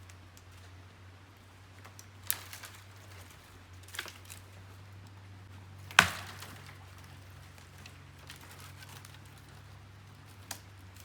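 A few sharp cracks or knocks, four in all, the loudest about halfway through with a short ringing tail, over a steady low hum.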